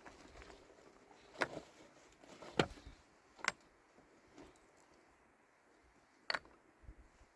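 Four short, sharp knocks or clicks spaced unevenly, with faint quiet in between.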